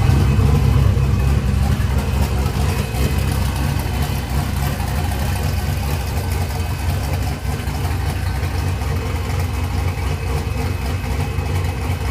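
Twin-turbocharged forged 347 V8 in a Trans Am idling steadily on E85 after its first startup on the new setup, a little louder in the first couple of seconds, then settling.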